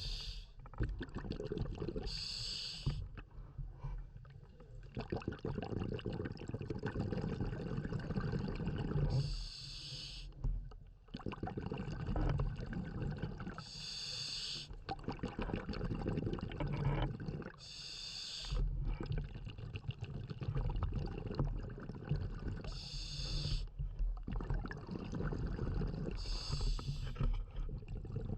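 A scuba diver breathing through a regulator underwater. Short hissing inhalations come every four to five seconds, alternating with longer rumbling, bubbling exhalations.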